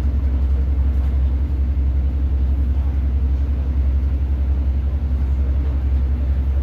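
Steady low drone and rumble inside a Class 150 diesel multiple unit as it runs along the line, the underfloor diesel engine and wheels on the track heard through the carriage.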